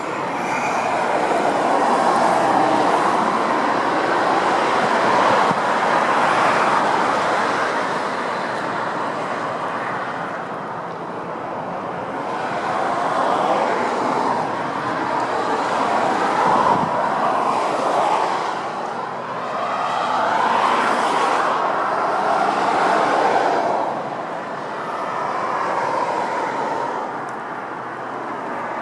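Road traffic noise: vehicles passing one after another, swelling and fading every few seconds.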